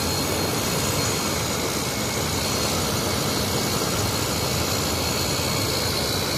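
2003 General Electric 8,000 BTU window air conditioner running steadily, its fan blowing and its compressor on, with a faint high whine over the even rush of air. The compressor is quiet under the fan.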